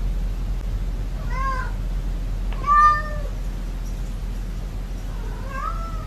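A cat meowing three times in short, arched calls, the middle one the loudest, over a steady low background hum.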